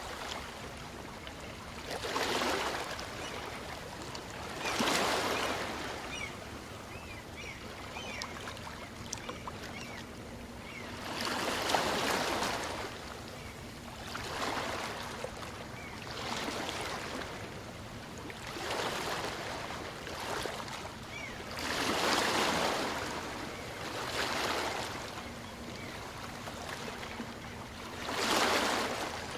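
Small waves of a calm sea breaking and washing up a beach, about eight surges of rushing water a few seconds apart, some louder than others, over a steady background hiss of surf.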